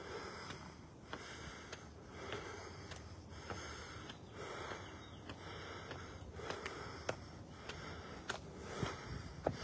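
Footsteps of a person walking, soft scuffs about every half second to a second, with a few light clicks.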